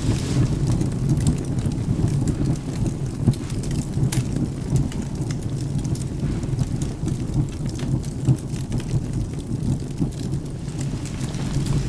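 Steady rain over a continuous low thunder rumble, with a wood fire crackling in scattered sharp pops, one standing out about four seconds in.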